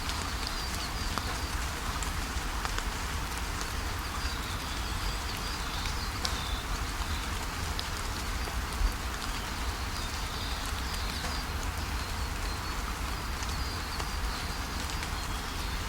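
Steady rain pattering, with many small drop ticks, while birds chirp in a high, wavering twitter that comes and goes. One louder drop knocks a little past the middle.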